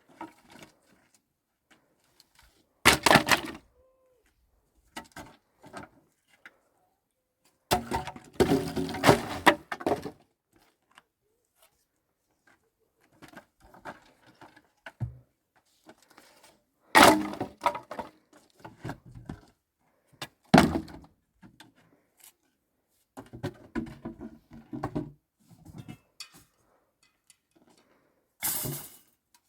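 Wooden boards being handled and broken: irregular thunks and cracks in about five separate bouts, one lasting about two seconds, with quiet between them.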